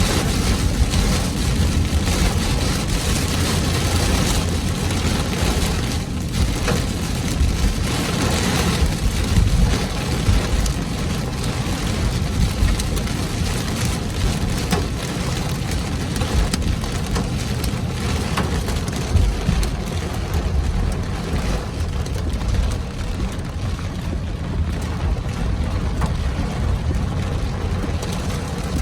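Torrential rain pelting the car's roof and windshield, heard from inside the cabin as a dense, steady hiss with countless small hits, over a steady low rumble.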